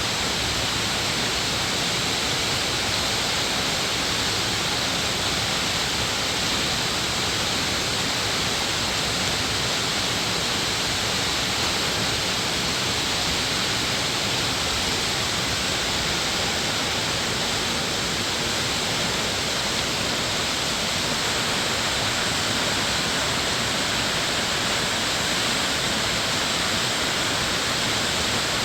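Rushing water of a mountain stream, a steady, even wash of sound with no breaks.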